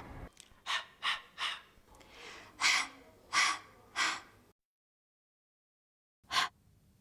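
A voice making a run of short, breathy, unvoiced phonics sounds, like the pure "h" sound said without a vowel: three quick puffs, then three longer ones, and two more near the end.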